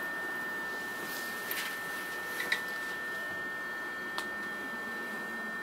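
Inside a JR East E233-series electric train standing with its equipment running: a steady high electrical whine that holds one pitch, with fainter tones beneath it, over a soft hiss. A few faint clicks and knocks come through, the sharpest about four seconds in.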